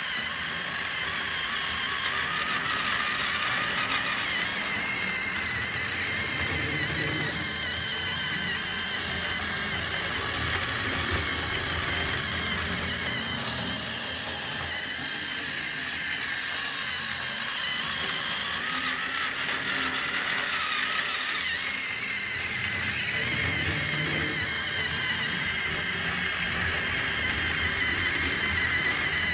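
Trackmaster toy engine with a swapped-in Tamiya high-speed motor running fast on its track, a steady high-pitched whine that swells and fades every several seconds.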